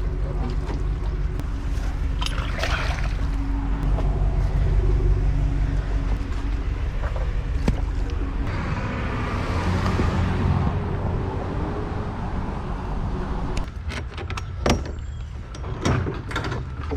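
Pressure washer's gas engine running steadily with a low hum. Water hisses from about halfway through, and a few sharp knocks come near the end.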